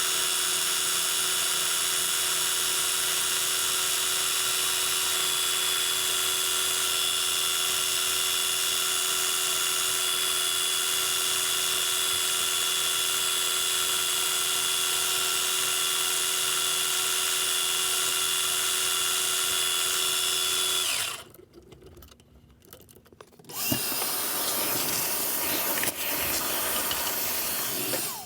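Small metal lathe running steadily with a constant whine, turning an acrylic pen blank, then spinning down and stopping about three quarters of the way through. After a brief pause, a rougher, noisier grinding sound without the steady whine runs for the last few seconds.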